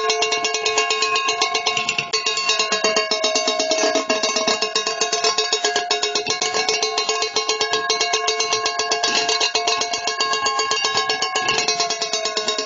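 Metal cans struck in a fast, even roll, ringing at several steady pitches, with one ringing tone slowly bending up and down.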